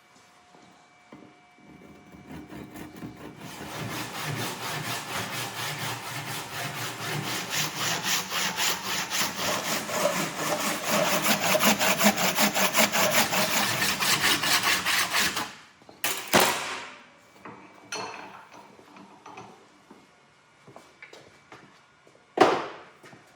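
Steel knife blade rubbed back and forth by hand on an abrasive, fast even scraping strokes that grow louder and stop about fifteen seconds in. A couple of short swishes follow.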